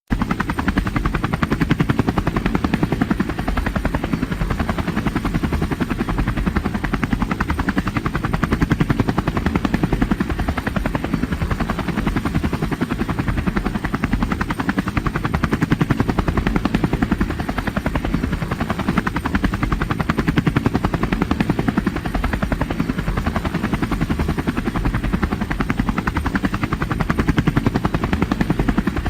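Helicopter rotor chopping steadily, a fast even beat of blade slaps over a low engine drone.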